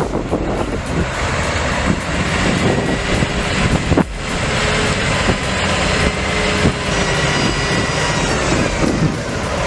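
Heavy diesel machine running loud under load, with a steady high whine over the engine noise; a short break about four seconds in.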